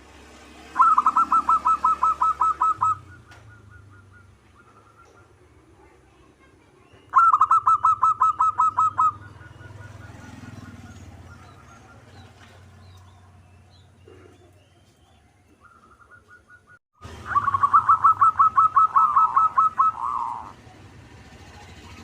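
Zebra dove (perkutut) cooing: three bouts of fast staccato coos, each a couple of seconds long, the last ending in a few falling notes, with softer short calls in the pauses between.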